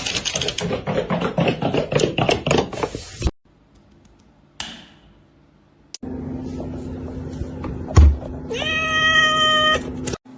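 A house cat gives one drawn-out meow at a steady pitch near the end, just after a single thud. Before that comes a quick, uneven run of clicks and knocks for about three seconds.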